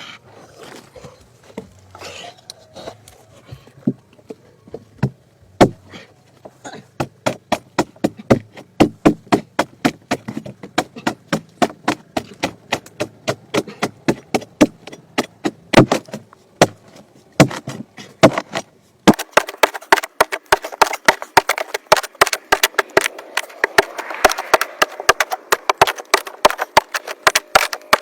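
A long run of sharp chopping strikes, a hand tool hewing wood, about two or three a second and growing more frequent. From about 19 seconds in, a steady rushing noise sits under the strikes.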